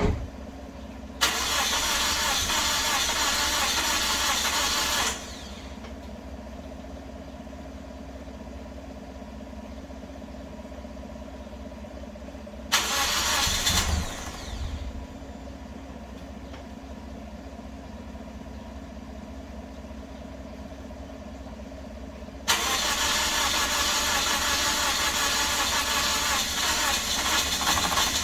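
Toyota Corolla engine cranking on the starter with the exhaust sputtering, failing to catch. There are three attempts: one of about four seconds, a short one near the middle, and a long one near the end. The owner takes the no-start for a flooded engine.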